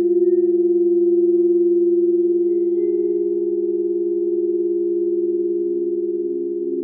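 Crystal singing bowls ringing together in several sustained, overlapping tones with a wavering pulse. A further lower tone swells in about two-thirds of the way through.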